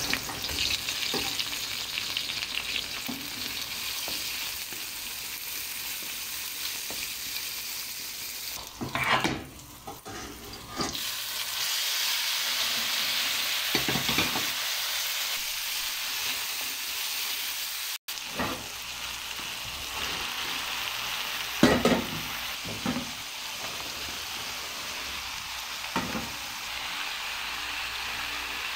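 Chopped garlic, then onions, tomatoes, bottle gourd and zucchini sizzling and frying in oil in a steel wok, a steady hiss that is interrupted by several short clunks against the pan.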